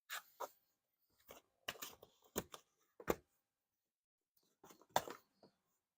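A series of about ten short, sharp knocks and clicks in irregular bunches, the loudest about three seconds in and again about five seconds in.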